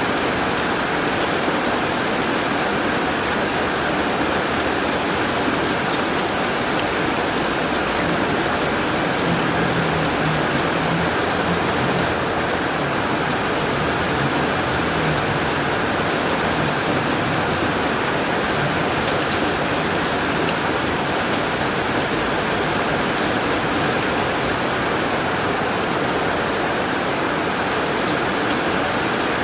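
Heavy rain pattering steadily on a tin roof, with a low rumble of thunder about ten seconds in.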